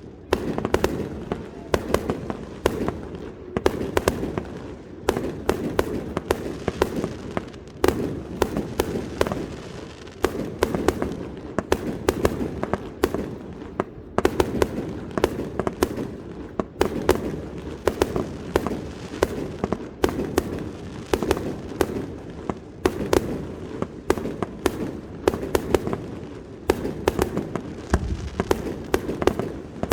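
Fireworks display: aerial shells bursting in rapid succession, several bangs a second over a continuous crackling rumble.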